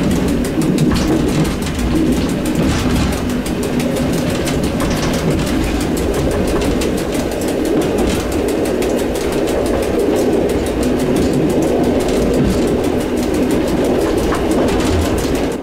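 EN57 electric multiple unit running along the track, heard from the driver's cab: a steady rumble and rattle of the train on the rails. It cuts off suddenly at the end.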